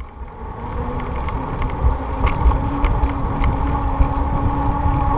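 Riding noise from a moving bicycle: wind rushing over the microphone in a steady low rumble, with road and tyre noise and a steady hum underneath.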